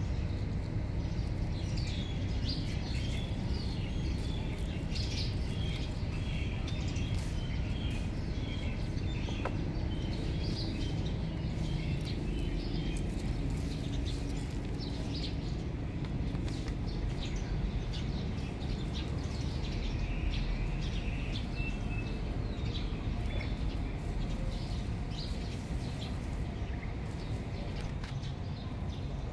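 Small birds chirping in short, high, repeated notes, busiest in the first half and again briefly about two-thirds of the way in, over a steady low background rumble.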